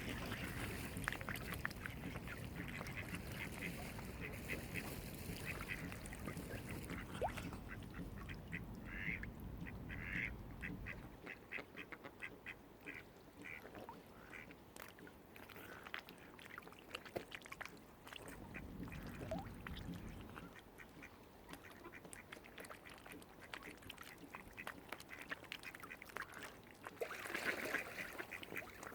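Waterfowl calling in runs of short, rapid calls, with a louder burst of calls near the end. A low steady rumble underneath fades out about a third of the way in.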